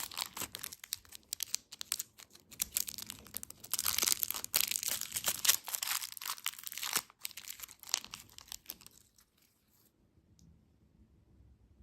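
Packaging crinkling and tearing in dense crackles, like a plastic candy wrapper being opened. It stops about nine seconds in.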